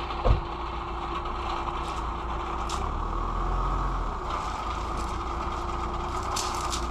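Minivan engine idling steadily, with one low thump just after the start.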